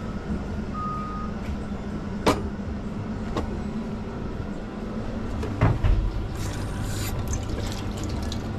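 Busy café counter: a steady low machine hum, a short high beep about a second in, a few sharp knocks, and a rattling clatter of crockery or utensils in the second half.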